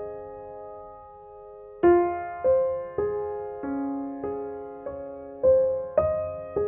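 Background music: a slow, soft solo piano (or electric piano) playing single held notes and chords, each struck and left to ring.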